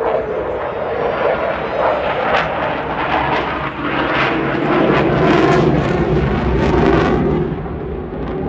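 Eurofighter Typhoon's two EJ200 jet engines passing overhead during a display, a rough jet noise that grows louder, peaks about five to seven seconds in, then eases.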